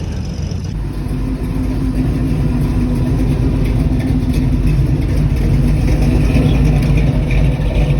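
Car engine running loud and steady, slowly growing louder.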